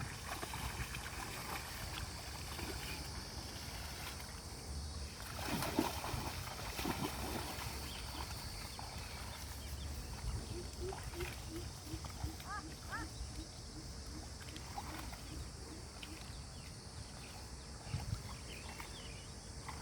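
Outdoor ambience with a steady low rumble and scattered animal calls, including a run of short repeated calls, about three a second, midway through.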